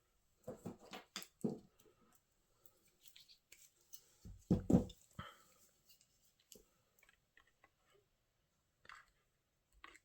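Small metal RC parts handled and fitted together by hand, giving scattered light clicks and knocks. There is a quick cluster of them about half a second in and a heavier knock just before the halfway point.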